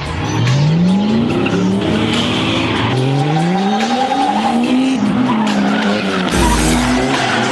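Drift car engine revving hard, its pitch climbing again and again as the throttle is worked through the slide, over tyre squeal and skidding. A brief low rumble comes near the end.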